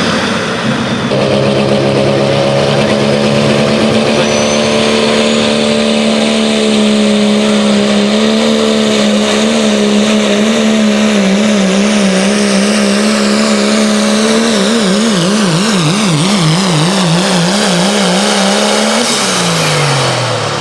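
A pulling truck or tractor engine held at high revs under load, loud and steady. About two thirds of the way in, its pitch wobbles quickly up and down. Near the end the pitch falls as the throttle is let off.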